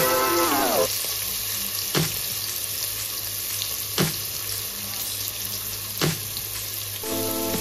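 Chopped onions and green chillies sizzling in hot oil in a pressure cooker, a steady hiss. A sharp click cuts through about every two seconds.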